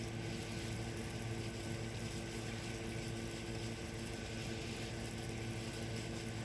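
Air conditioner unit running with a steady hum and fan noise.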